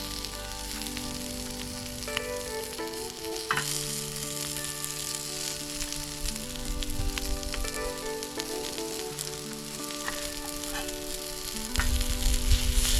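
Sausages sizzling on a grill over a wood fire, a steady hiss with scattered sharp pops, getting louder near the end. Background music with held notes plays underneath.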